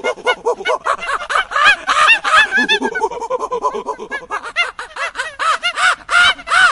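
An animal giving a rapid run of short calls, several a second, each rising and falling in pitch, like chattering or laughter.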